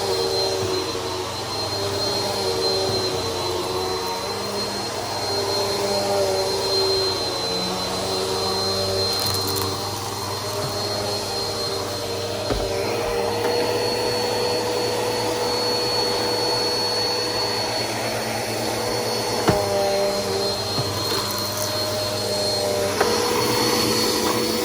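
Bissell PowerForce Helix upright vacuum cleaner running steadily with a constant high whine. The pitch of its motor shifts slightly now and then, and there are a few light knocks.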